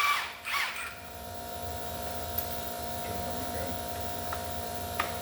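A short rattling burst from an impact wrench on the exhaust manifold bolts in the first second. Then a steady electric hum, with a couple of sharp tool clicks, the second near the end.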